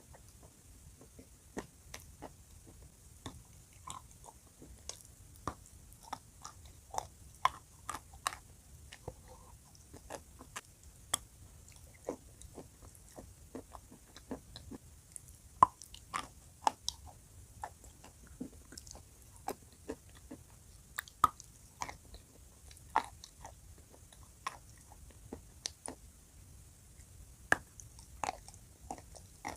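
A person chewing and biting dry chalk coated in blue clay paste: irregular sharp crunches and crackles, several a second at times, close to the microphone.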